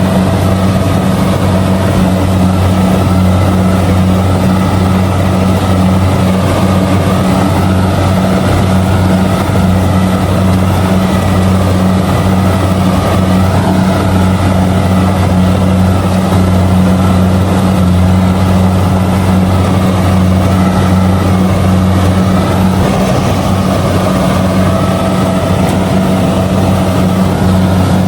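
Kubota DC-70G combine harvester running steadily under load while harvesting rice: a loud, even diesel engine hum with the machinery's drone over it, holding the same pitch throughout.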